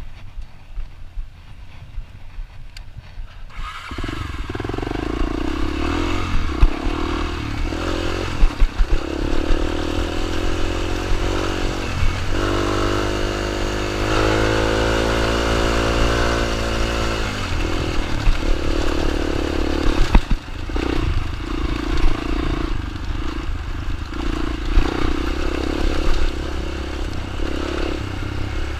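Dirt bike engine running. It becomes loud about four seconds in, climbs in pitch and holds higher for several seconds in the middle, then drops back to a lower steady note.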